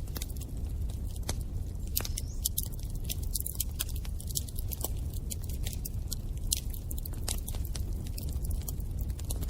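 Bonfire burning: a steady low rumble of flames with frequent sharp crackles and pops of burning wood, a few with a brief hiss as sap escapes.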